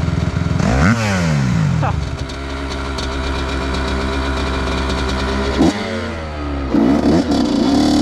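Dirt bike engine running and being revved in short blips: it rises about a second in and again near two seconds, drops back, then climbs again late on and holds higher.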